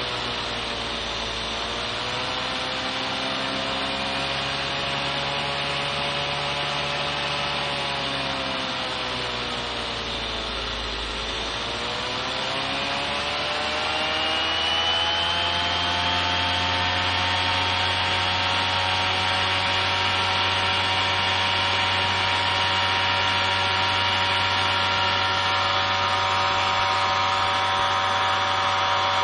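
Bosch 120 A car alternator converted to a brushless motor and driven by an RC speed controller, running with an electric whine. The pitch dips and recovers twice, then climbs about halfway through and holds steady at a higher speed.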